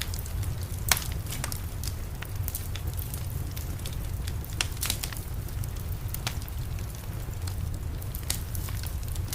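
Wood fire crackling in a fireplace: irregular sharp pops and snaps, the loudest about a second in, over a steady low rumble.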